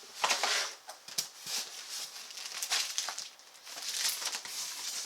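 Packaging rustling and crinkling in irregular bursts as accessories and papers are lifted out of a sewing-machine box, the loudest burst about half a second in.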